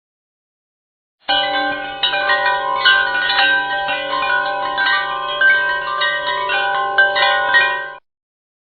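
Background music of overlapping wind-chime tones that ring and decay. It starts abruptly a little over a second in and cuts off suddenly about half a second before the end.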